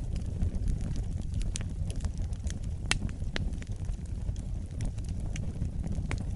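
Wood fire burning in a fireplace: a steady low rumble of flames with irregular crackles and pops, a few sharper snaps standing out.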